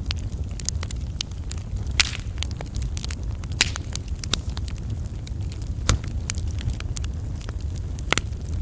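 Wood fire burning in a fireplace: a steady low rumble with irregular crackles and sharp pops, the loudest about two seconds in, near the middle and near the end.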